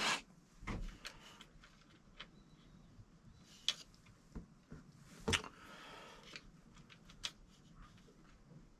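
Scattered light clicks and taps of small parts and tools being handled, with a few sharper clicks, the loudest at the very start, near four seconds and a little past five, and a soft rustle just after.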